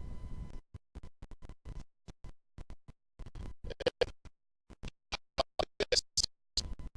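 Badly broken-up recording audio: short fragments of sound, some of them bits of a voice, cut by dropouts to dead silence several times a second.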